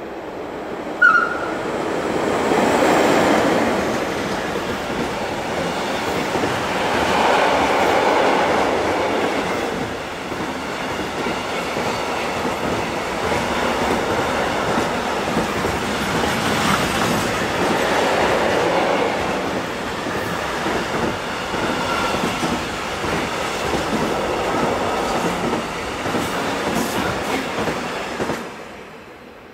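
A train running past on the rails, its noise building over the first few seconds, holding for nearly half a minute and falling away sharply near the end. A brief high tone sounds about a second in.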